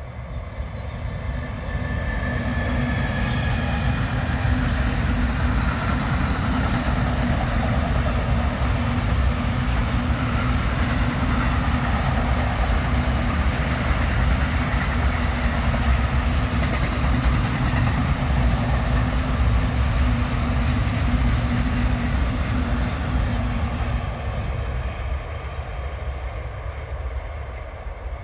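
Long container freight train rolling past: the steady rumble and rattle of wagon wheels on the rails, building up over the first few seconds and fading toward the end as the train moves away.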